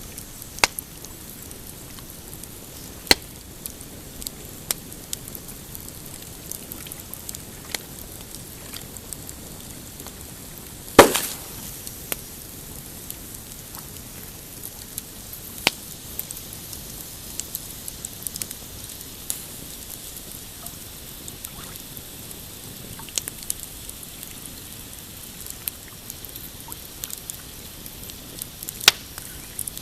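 Pine campfire crackling, with irregular sharp snaps and pops over a faint steady hiss. The loudest pop comes about 11 seconds in, and another strong one near the end.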